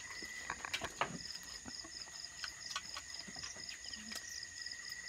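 Insects chirping: a steady high trill with a pulsed chirp repeating about four times a second, with a few scattered clicks over it.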